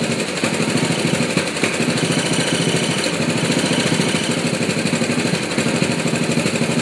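Lawn mower engine running with an uneven, stumbling beat; the title calls it misfiring.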